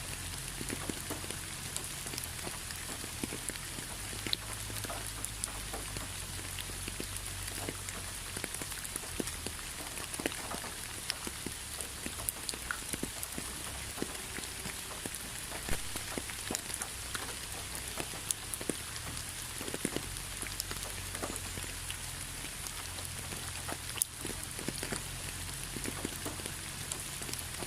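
Steady rain with many separate drops ticking sharply on a hard surface over a constant hiss, and a low rumble beneath.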